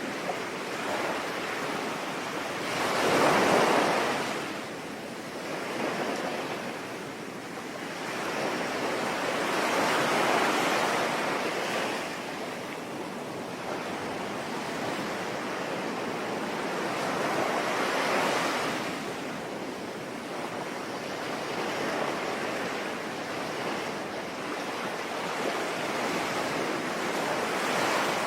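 Sea waves washing in and drawing back about every seven or eight seconds, four times, the first the loudest, over a steady hiss of rain.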